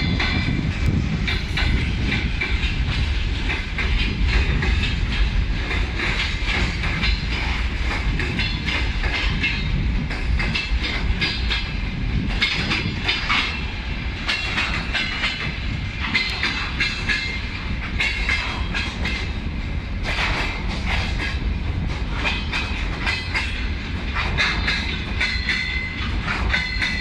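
Freight train of covered hopper and gondola wagons rolling past close by: a steady low rumble with the wheels clacking over the rail joints.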